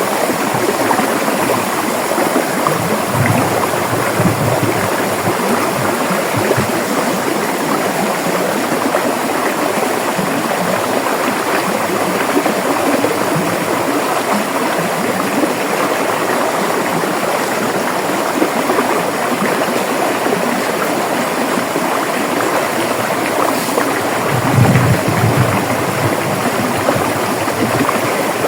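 River water flowing and babbling in a steady, continuous rush, with brief deeper swells about three seconds in and again near the end.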